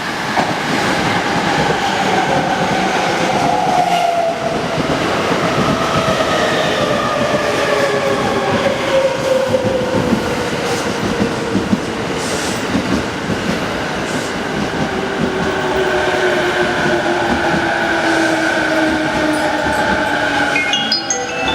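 JR East E217 series electric commuter train pulling into a station and braking. Its motor and inverter whine falls steadily in pitch as it slows, over the rumble and clatter of its wheels on the rails.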